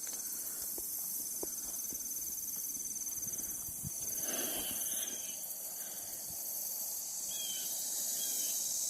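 Outdoor ambience dominated by a steady, high-pitched insect trill, with a few faint short chirps near the end.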